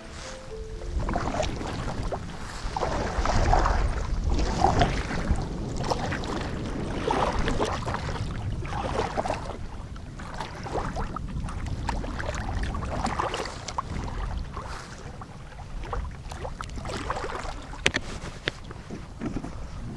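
Gusty wind buffeting the microphone, with water sloshing around a kayak; the noise swells and fades unevenly, with a few small knocks.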